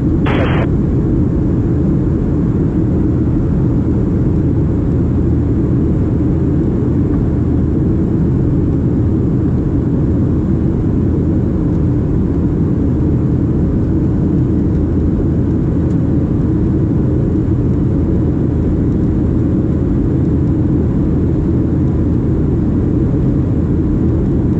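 Steady low rumble of a Boeing 737-700 in flight, its CFM56-7B engines and airflow running evenly.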